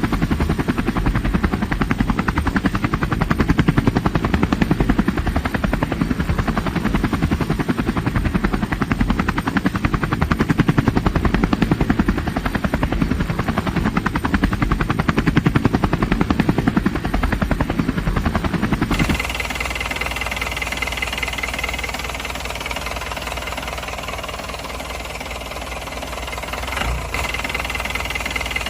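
Helicopter rotor chopping steadily. About two-thirds of the way through it cuts off abruptly and gives way to an engine running.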